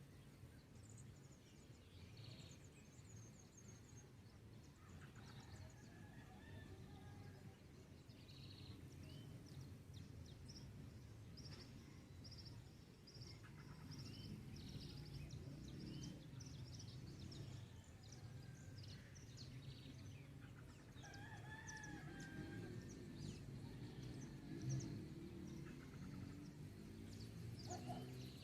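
A rooster crowing among the calls of small songbirds in a dawn chorus, faint over a steady low rumble.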